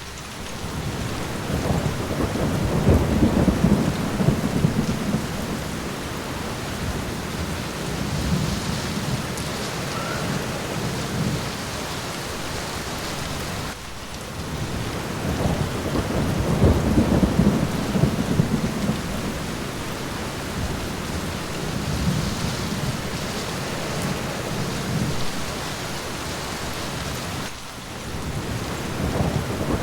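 Steady rain on a window with rolling thunder, the low rumble swelling up three times: a few seconds in, about halfway, and again at the end.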